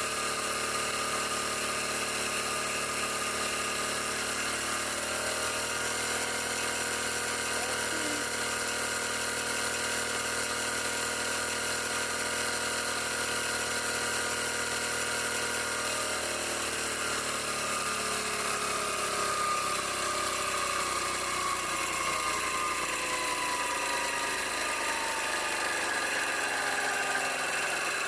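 Cornelius 3000 PSI high-pressure compressor running, driven by an electric motor on a variable frequency drive, with a steady run of several tones. About two-thirds of the way through its tones start to glide downward as the drive speed changes.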